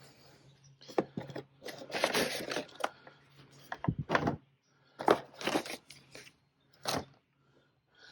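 Handling noise from a portable jump starter kit and its accessories: irregular rustling and crunching with several sharp clicks.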